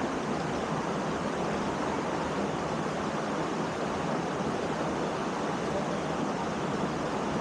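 Waterfall rushing steadily into a rock pool: a constant, even roar of falling water.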